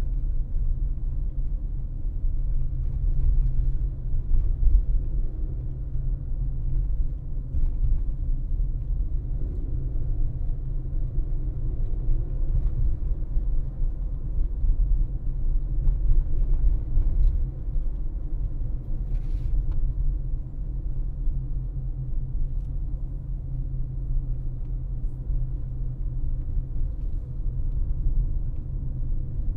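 A car driving: steady low road and engine rumble, with a few faint ticks.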